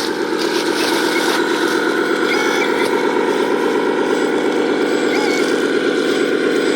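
Electric drive and hydraulic pump of a 1/14-scale radio-controlled 6x6 dump truck running with a steady, rapidly pulsing mechanical whirr.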